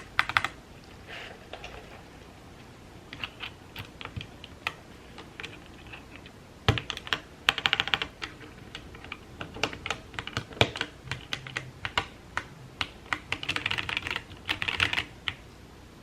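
Typing on a QK65 custom mechanical keyboard fitted with lubed Gateron Milky Yellow linear switches: irregular key clacks with a couple of quick runs of keystrokes.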